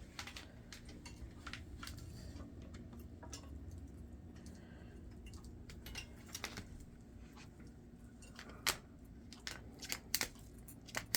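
African grey parrot's beak and feet working at a chew toy: scattered faint clicks and taps, with a few sharper taps in the last few seconds.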